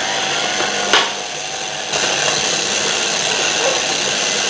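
Electric food mixer running steadily as it mixes biscuit dough, with a knock about a second in and the motor getting louder around two seconds in.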